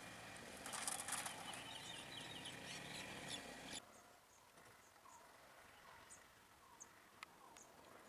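Faint outdoor ambience with small birds chirping: a denser run of short high chirps in the first half, then it drops away suddenly and only scattered faint chirps and a couple of ticks remain.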